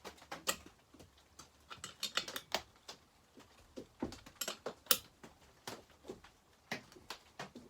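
Irregular light metallic clicks and taps as a wrench works bolts tight on the chainsaw's parts.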